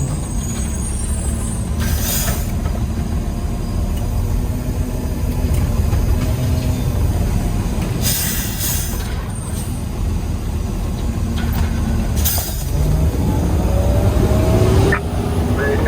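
Peterbilt 320 garbage truck's diesel engine running with a steady low rumble, with three short air hisses from the air brakes, about two, eight and twelve seconds in.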